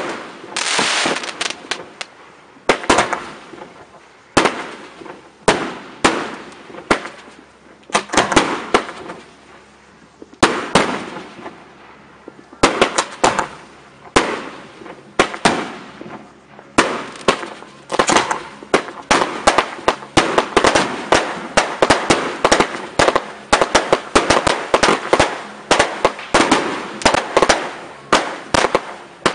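Fireworks display: aerial shells bursting with sharp bangs and crackle, one after another. Gaps between the bangs for the first part, then the bursts come thick and fast about halfway through.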